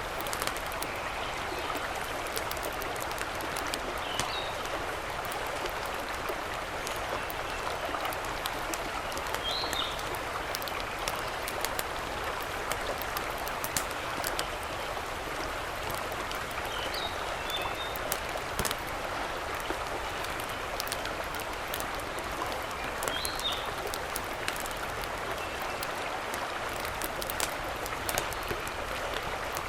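Mountain stream rushing steadily. A short bird call repeats about every five to six seconds.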